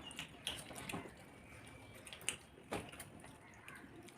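People eating soft khichuri: faint wet chewing and smacking, with a few short clicks scattered through.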